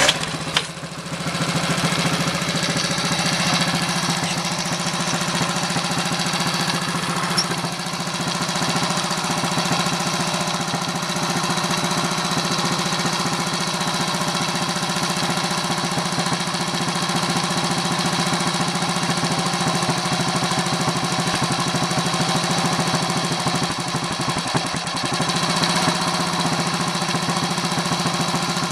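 Little Honda P25's small four-stroke single-cylinder engine catching at the start, then running steadily with a fast, even beat. It holds a fairly stable run, though the carburettor is known to overflow at times.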